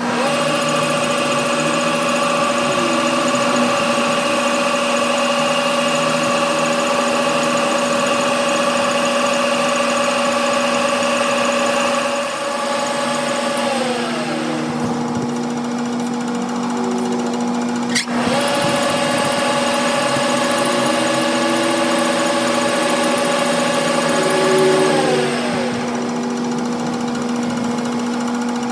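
Machine tool motor running steadily with a hum and a higher whine. Nearly halfway through the whine slides down in pitch. A sharp click follows a few seconds later, the whine climbs back up, and it slides down again near the end.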